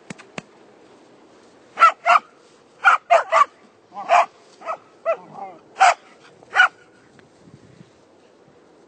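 Australian Shepherd puppy barking in short, sharp, high yips, about ten of them in quick runs.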